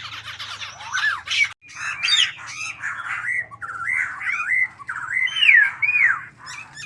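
Bulbul singing: scratchy chatter for the first second and a half, then a run of clear whistled notes that swoop up and down in pitch.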